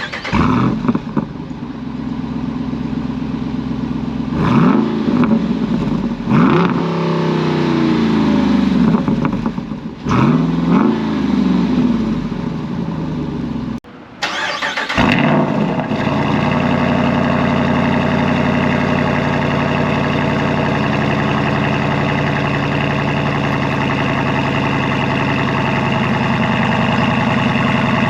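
Jeep Wrangler 392's 6.4-litre HEMI V8 running through an MRT H-pipe that replaces the factory X-pipe and resonator: revved a few times, each rev rising and falling in pitch. After a short break about halfway it settles into a steady idle.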